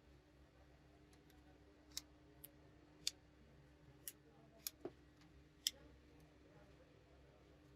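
About seven small, sharp clicks and taps, irregularly spaced over a few seconds, from hard phone parts and small tools being handled during a smartphone repair.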